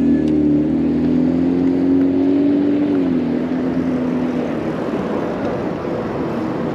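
A car's engine hum alongside, steady at first, dipping slightly in pitch about three seconds in and fading out soon after, over constant wind and road noise.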